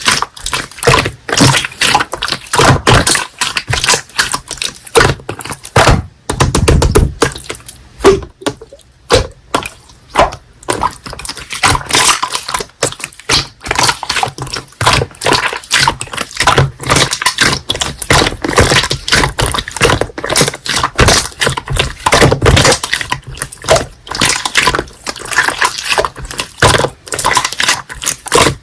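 Slime being squished and poked by hand, a dense run of sticky clicks and pops, briefly quieter about a third of the way in.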